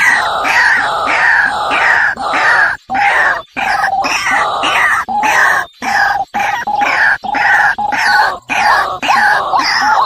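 Loud bird calls repeated about twice a second, broken by a few sudden short gaps.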